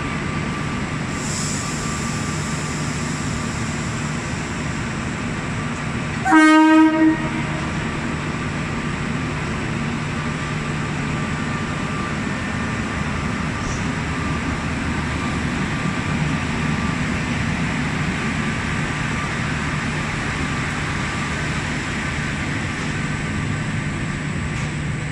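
Renfe class 269 electric locomotive sounding its horn once, a single blast of about a second, as it pulls the train out on departure. Around the blast, the train runs steadily as the locomotive and coaches roll slowly past.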